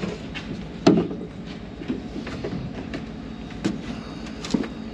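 Steady low running of a vehicle engine, with a few sharp metallic knocks; the loudest comes about a second in, and two more come near the end.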